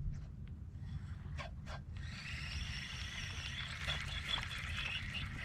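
Wind rumbling on the microphone, with a few light clicks, then a hissing, rustling noise from about two seconds in.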